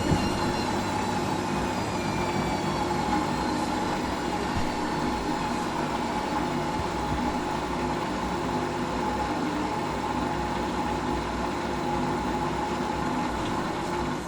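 Hoover AAA160 washing machine drum spinning down after a spin: a motor whine falls in pitch over the first few seconds over a steady running hum, with a brief click at the very start.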